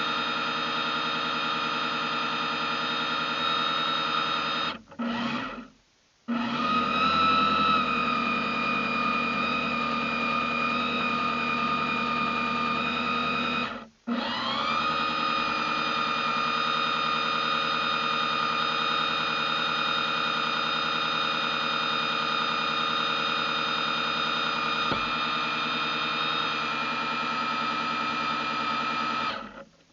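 RC boat's motor running with a steady high whine. It cuts out three times, about five seconds in, about fourteen seconds in and near the end, and each time spins back up with a rising pitch.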